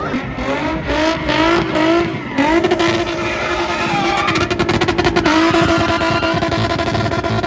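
Performance car engine revving hard. Its pitch jumps up in several quick blips, then climbs in one longer pull and drops sharply about five seconds in, as at a gear change, before holding steady.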